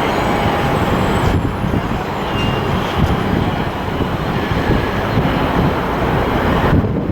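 Jet airliner engines at takeoff power: a loud, steady rumble as the plane rolls for departure.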